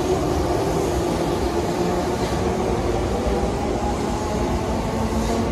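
Electric train running at a steady speed: a continuous rumble with a steady hum running through it.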